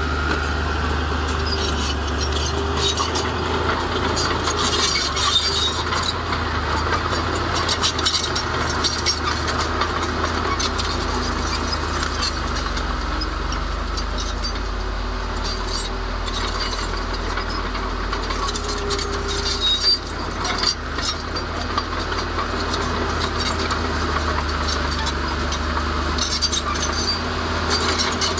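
Heavy diesel earth-moving machinery running steadily, with frequent clanks and rattles of metal and rock over the engine's low hum.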